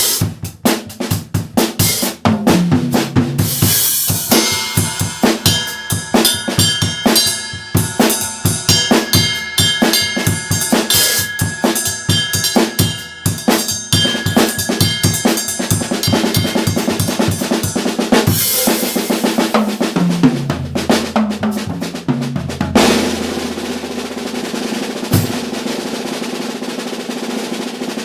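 Yamaha acoustic drum kit played fast: a busy pattern of bass drum, snare and cymbals, then a fill stepping down the toms about two-thirds of the way in, and a continuous roll with ringing cymbals in the last few seconds.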